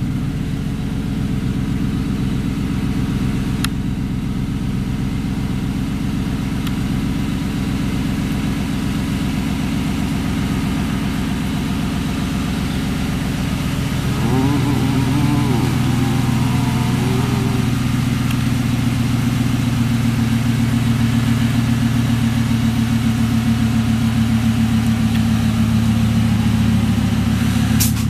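Engine of a large four-wheel-drive vehicle running steadily at idle. About halfway through the pitch wavers briefly, and it then runs a little louder and steadier.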